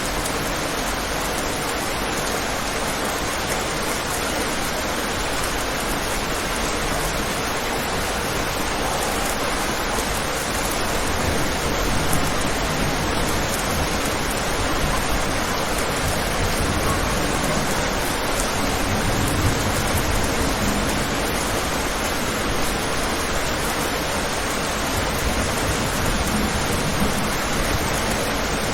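Steady rain, an even hiss with no breaks, and a low rumble swelling briefly about two-thirds of the way through.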